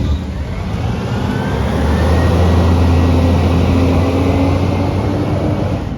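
Garbage truck engine running with a heavy low drone, speeding up about two seconds in, holding there, then easing off near the end.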